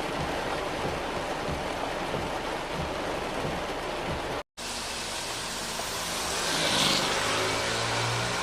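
Steady hiss of heavy rain and running water, with a brief dead gap about halfway through. After the gap a low vehicle hum rises and the hiss brightens as a car passes through the wet street near the end.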